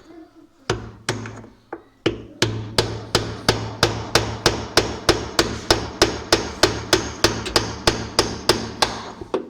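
Repeated hammer blows striking the tight central bolt of an automatic washing machine's gearbox to loosen it. A few separate blows come first, then from about two seconds in a steady run of about three blows a second.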